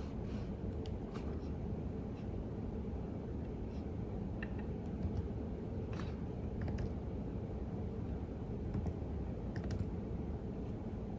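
Typing on a computer keyboard: irregular, scattered keystroke clicks over a steady low background rumble.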